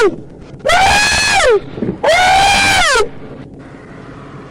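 A man wailing and crying in long, high-pitched cries, each rising and then falling in pitch. There are two full wails plus the tail of one at the very start, and they stop after about three seconds.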